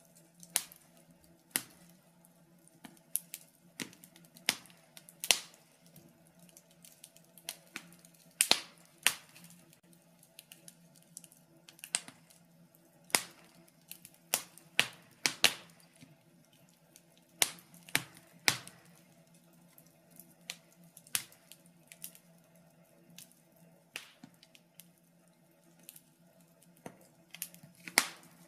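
Wood fire in a fireplace crackling: irregular sharp pops and snaps, a few each second, some louder than others, over a faint steady hum.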